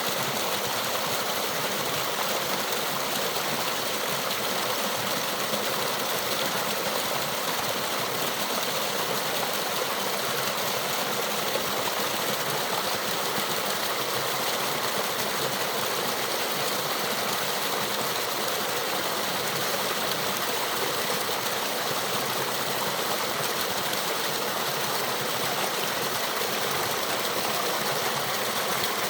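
Small waterfall and stream flowing, a steady, even hiss of falling and running water.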